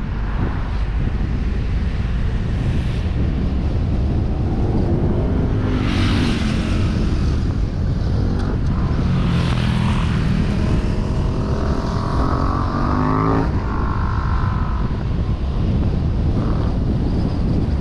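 Wind rushing over a suction-mounted action camera on a moving vehicle, with an engine rising steadily in pitch as it accelerates and dropping sharply about 13 seconds in, as at a gear change.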